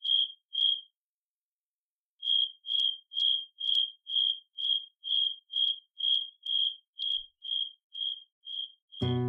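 A high, single-pitch chirp or beep repeated about twice a second, two pips, a pause of about a second, then a long run that grows slightly fainter. Strummed acoustic guitar music comes in at the very end.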